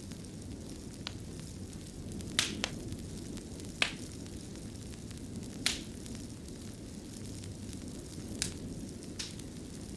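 Wood fire burning in a stone fireplace: a steady low rumble of flames with scattered sharp pops and snaps, about seven in all, the loudest a little over two seconds in and near four seconds in.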